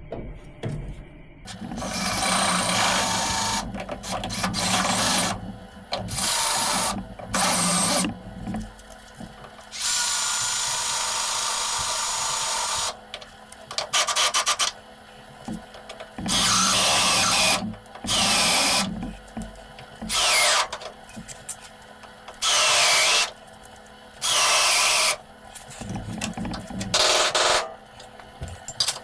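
Electric drill boring through spot welds in the steel chassis bracket, run in about ten separate bursts of one to three seconds each with short pauses between. A few of the bursts rise or fall in pitch as the bit bites.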